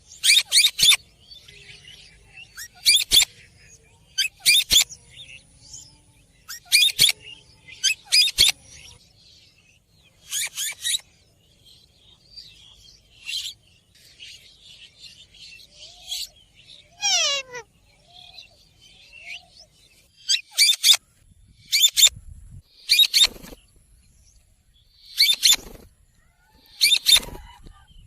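Ringneck parrot calling: a dozen short, shrill squawks, often in quick pairs, a second or two apart. Midway there is a pause, and then a single whistle that slides steeply down in pitch.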